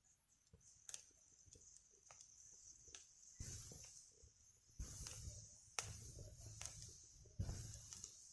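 Wood fire burning in a Picogrill 398 fire pit, crackling with a few sharp pops and several low rushing surges in the second half.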